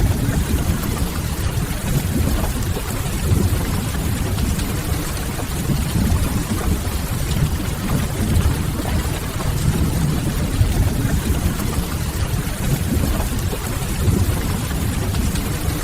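Steady rain with a deep, even rumble underneath and faint crackles of a wood fire.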